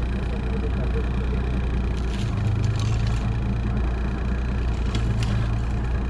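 Vehicle engine idling steadily with a low hum, its note swelling slightly twice.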